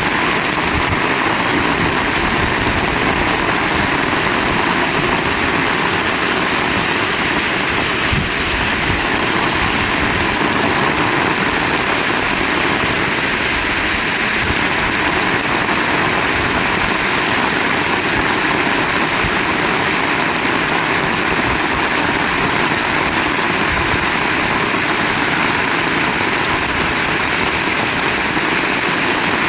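Heavy rain falling steadily, a dense, unbroken hiss.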